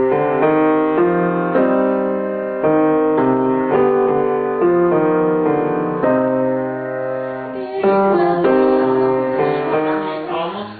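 Piano playing a song's accompaniment in chords, each chord struck and left to ring, one after another at a steady pace.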